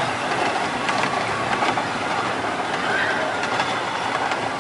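Small zoo tourist train running along: a steady running noise with faint scattered clicks.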